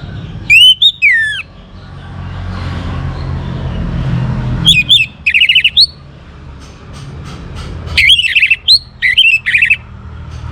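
Young orange-headed thrush singing in three loud bursts of rapid, sliding whistled notes and trills, the first about half a second in, the next about five seconds in, and the last from about eight to ten seconds in.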